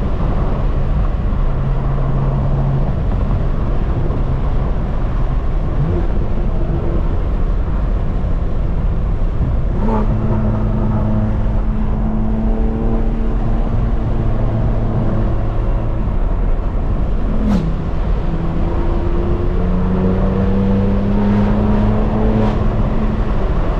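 Straight-piped BMW M4 Competition's twin-turbo inline-six running hard on a canyon drive, heard over heavy wind and road rumble. Its pitch holds steady and then climbs several times under acceleration, with a few sharp cracks around the gear changes.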